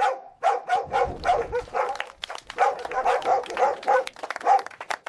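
Dogs barking in quick succession, several short barks a second without a break: chain barking, dogs joining in on one another's barks.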